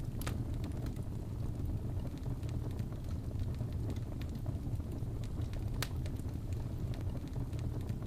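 Wood fire burning in a fireplace: a steady low rumble with scattered crackles and pops, two of them sharper, just after the start and about six seconds in.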